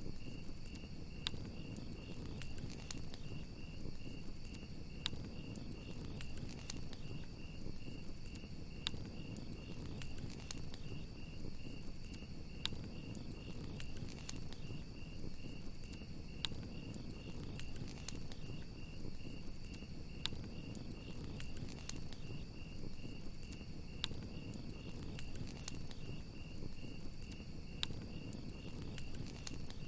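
Crickets chirping in a steady, rapid, even pulse over a campfire crackling with scattered sharp pops and a low, steady rumble of flame.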